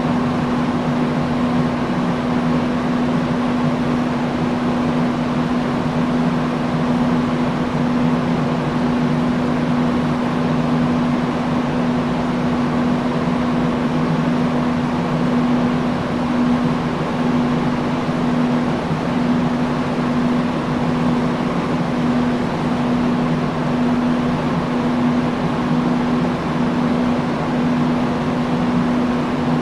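Industrial fan running steadily: a constant rush of air with a steady low hum from the motor.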